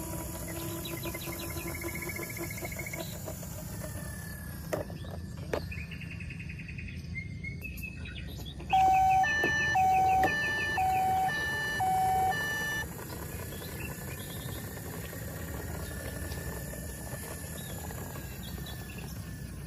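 Electronic toy-vehicle sound effects: a loud alternating two-tone beeping, about four low beeps traded with higher ones, lasting some four seconds around the middle, over steady background noise, with a few short chirps and tones before it.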